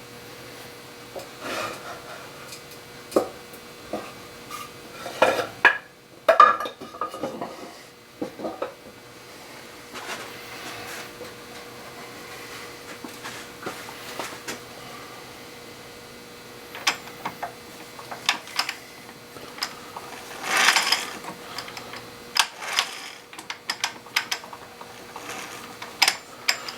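Metal hand tools clinking, knocking and scraping against metal in irregular bursts, with a longer scraping rasp about twenty seconds in, over a faint steady hum.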